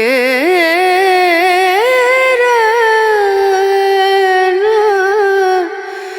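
Background music: a solo voice singing one long, ornamented phrase, sliding between held notes, fading near the end.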